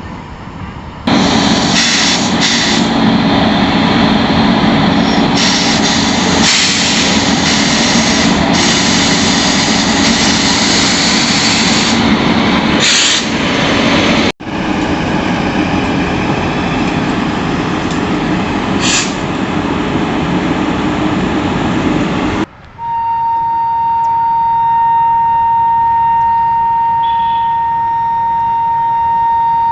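Train running past on the track: a loud, steady rush of wheels and coaches, cut off abruptly about halfway through and then resuming. About two-thirds of the way in, the rail noise stops and a locomotive horn sounds one long, steady note.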